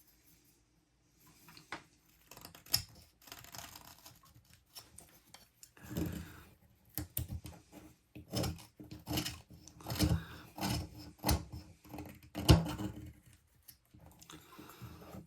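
Carving knife cutting into a wooden bird blank, knocking off the rough edges: irregular slicing and scraping strokes with sharp clicks, starting about a second and a half in and easing off near the end, the loudest click about twelve seconds in.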